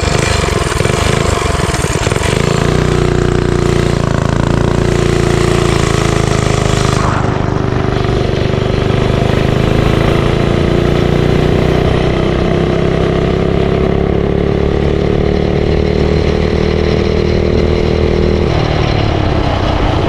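Motovox mini bike's small engine being ridden: the revs climb about two seconds in, hold steady at cruising speed, then ease off near the end.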